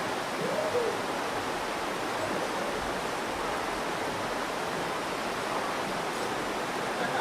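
Virgin River water rushing steadily through the canyon, with a brief rising-then-falling tone about half a second in.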